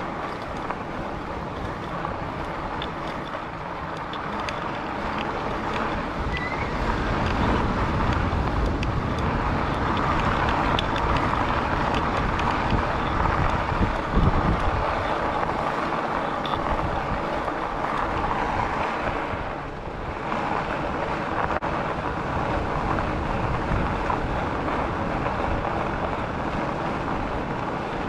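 Wind rushing over the microphone and tyre noise from a Rad Rover fat-tyre e-bike riding along a paved path, steady throughout with a brief quieter dip about twenty seconds in.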